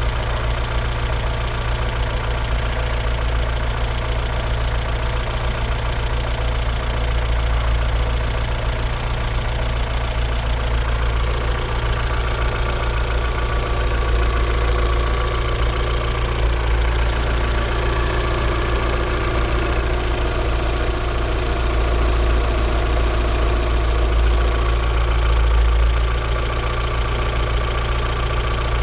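Chevrolet Vectra 2.2 16V four-cylinder petrol engine idling steadily.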